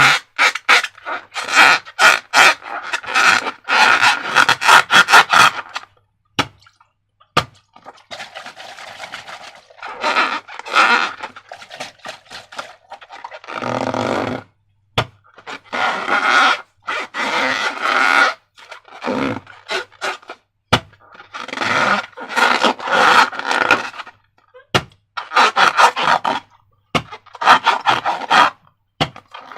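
Slime squelching as it is squeezed and worked, in bursts of quick wet crackling clicks with short pauses between.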